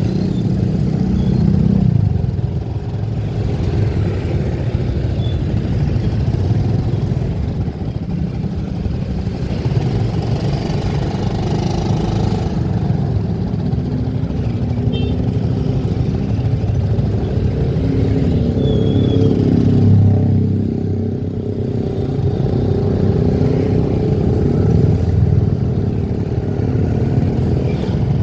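A motor vehicle's engine running while driving, its pitch rising and falling with speed, over steady road noise.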